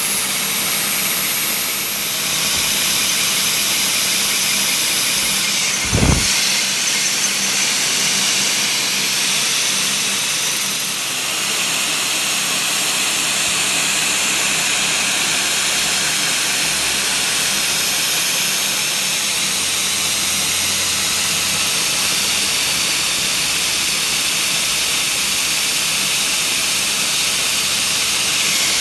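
Steady, loud hissing machine noise with a thin high whine over it, with a single thump about six seconds in.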